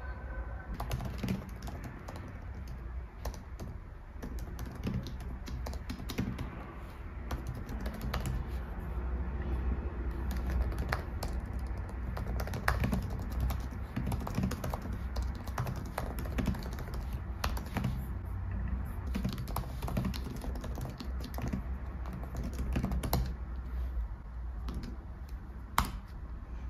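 Typing on a keyboard: a run of quick, irregular key clicks over a steady low hum.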